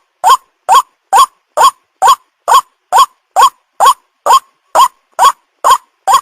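White-breasted waterhen lure call: short, loud calls repeated evenly about twice a second, each sweeping up in pitch and then dropping, fourteen or so in a row.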